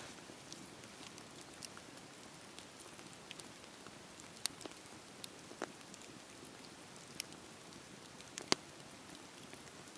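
Wood fire crackling in a fireplace: a steady soft hiss with scattered sharp pops, the loudest about eight and a half seconds in.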